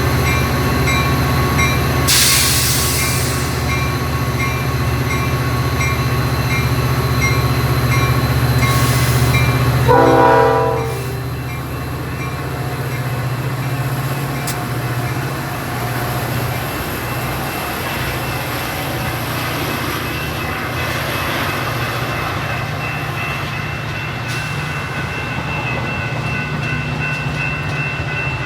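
Metra commuter train's diesel locomotive running at the station with its bell ringing at about two strikes a second, and one short horn blast about ten seconds in. After the horn the engine's low rumble drops away, leaving quieter rail noise.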